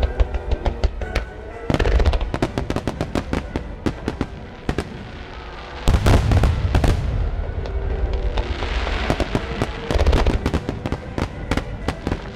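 Fireworks finale: rapid volleys of shells bursting, dense crackling over heavy low booms, with fresh surges about two seconds in, near the middle and again around ten seconds. Music plays underneath.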